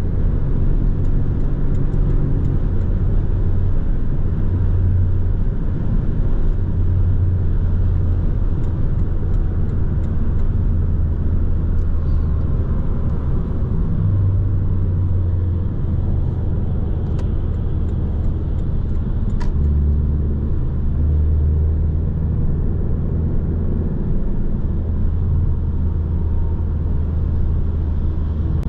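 Porsche 718 Boxster S's turbocharged flat-four engine and road noise while driving: a steady low drone whose note steps up and down several times.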